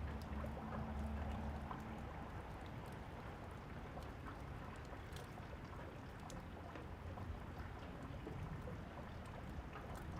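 Steady rain, with a low thunder rumble dying away in the first two seconds and scattered crackles of a wood fire.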